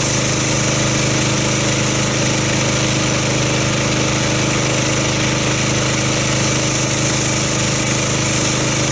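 Gas-engine pressure washer running steadily, with the hiss of its water spray as foam is rinsed off the car.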